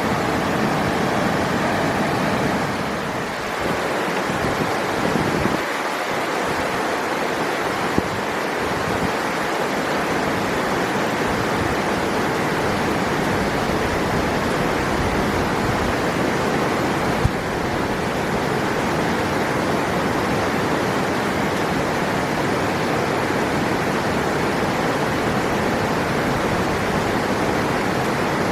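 River water rushing steadily, a constant noise with two brief clicks about eight and seventeen seconds in.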